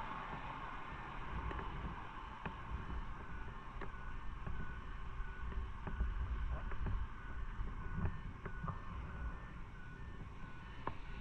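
Motorcycle riding on city roads: a low steady engine rumble with road and wind noise on the bike-mounted microphone, and scattered small clicks. From about four seconds in, a faint repeated beeping tone sounds, like a vehicle's reversing alarm.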